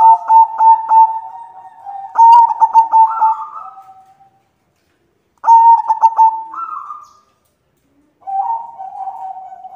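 White zebra dove cooing in repeated bouts of quick, staccato coo notes, each bout trailing off into longer drawn-out notes. There are four bouts with short pauses between them.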